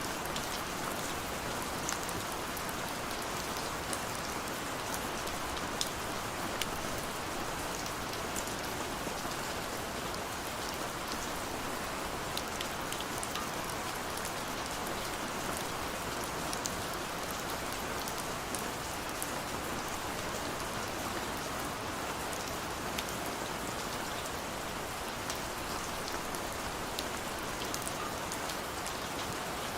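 Steady rain falling, an even hiss with scattered sharp drop clicks throughout.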